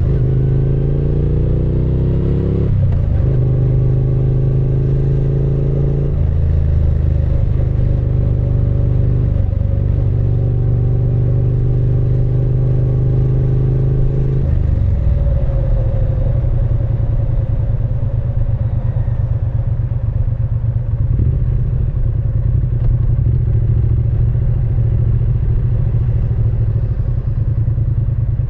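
Triumph Speed Twin 900's 900 cc parallel-twin engine and exhaust under way, pulling up through the gears with three shifts in the first ten seconds, then holding a steady speed and easing off about halfway through to a lower, even run.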